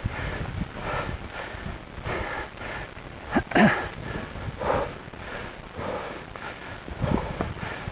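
A cyclist breathing hard while climbing a steep hill, a loud breath roughly every second, the strongest about halfway through, over a low rumble of wind on the microphone.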